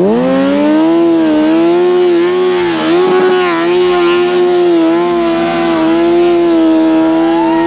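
2008 Suzuki Hayabusa's inline-four engine, converted to a snow bike, revving up sharply at the start and then held at high revs under load, its pitch staying high and steady with small wobbles.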